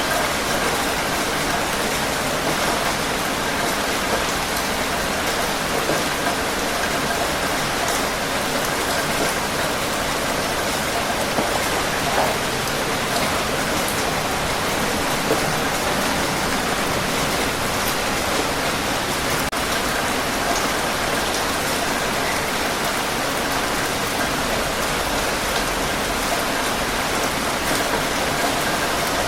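Steady rain with scattered drips.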